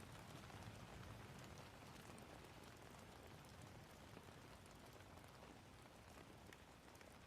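Faint steady rain: an even hiss of falling drops with scattered small ticks of single drops.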